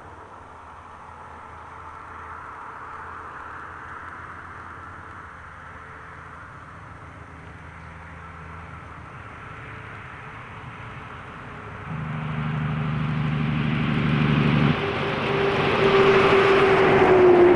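A motor vehicle approaches and passes close by. Its engine and tyre noise build over the last several seconds and are loudest near the end, with a tone that falls slightly in pitch as it goes by.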